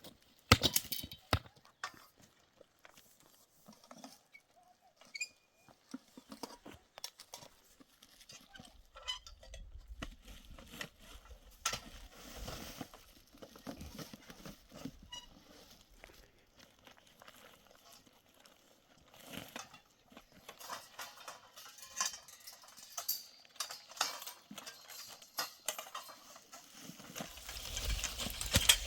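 Livestock moving about: scattered hoof knocks and rustling, with low rumbling gusts partway through and near the end.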